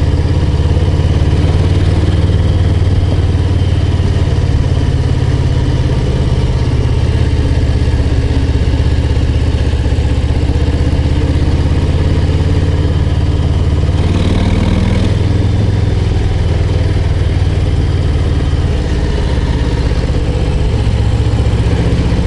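Harley-Davidson Low Rider ST's Milwaukee-Eight 117 V-twin running steadily at low revs, around 1600–1700 rpm, while pulling up a mountain road. A brief burst of hissy noise comes about fourteen seconds in.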